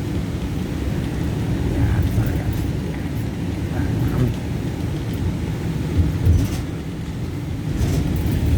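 Steady low engine and road rumble heard inside a paratransit bus cabin.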